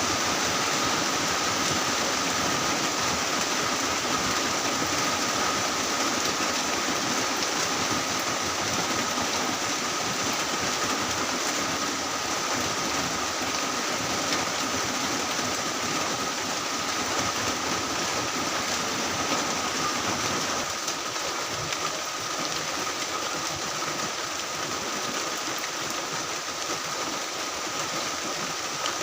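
Heavy rain falling steadily, an even rushing hiss with a faint steady tone running through it; the deeper part of the sound eases slightly about two-thirds of the way through.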